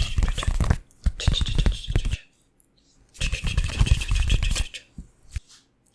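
ASMR hand-chopping trigger: rapid, scratchy tapping in three bursts of about a second each, with short pauses between and one brief tap near the end.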